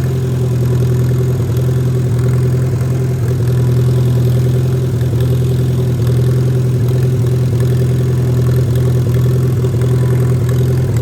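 1947 Farmall A tractor's four-cylinder engine running steadily at an even speed.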